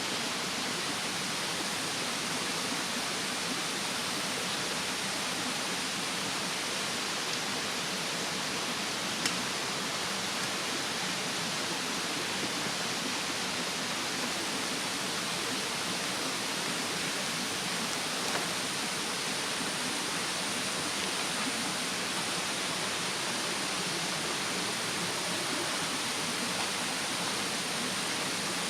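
Steady rushing of a mountain stream, with a wood campfire burning and popping faintly twice, about nine and eighteen seconds in.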